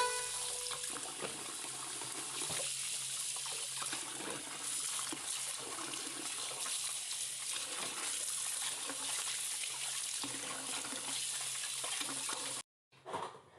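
Tap water running steadily into a sink, cutting off suddenly near the end.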